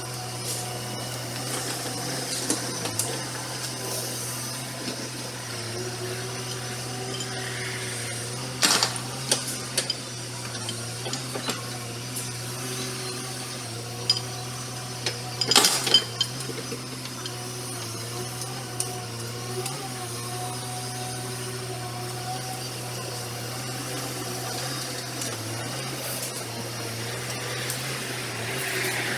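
Excavator's diesel engine running steadily, with sharp clanks about nine seconds in and again about sixteen seconds in as the machine works.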